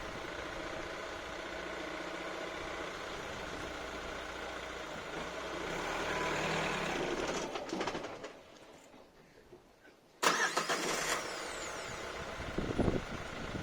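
Mazda CX-3 engine running steadily, going quiet about eight seconds in, then starting again with a sudden loud burst about two seconds later and settling back to running.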